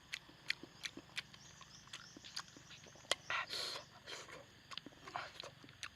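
Campfire crackling faintly: scattered, irregular sharp pops and clicks, with a brief soft hiss a little past the middle.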